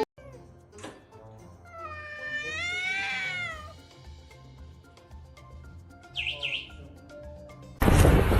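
A cat meowing once, a long call that rises and falls in pitch, followed a few seconds later by two short high chirps. Near the end a loud rushing noise starts abruptly.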